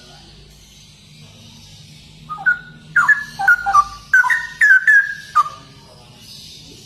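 Straw-headed bulbul (cucak rowo) singing: a quick, loud run of rich whistled notes gliding up and down. The run starts about two seconds in and lasts about three seconds.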